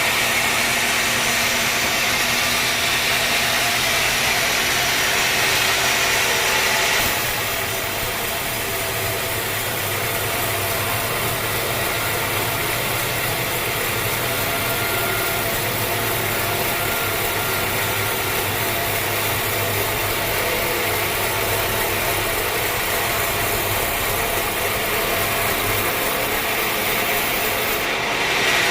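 Sawmill machinery running, a steady mechanical noise that changes abruptly about seven seconds in and again near the end.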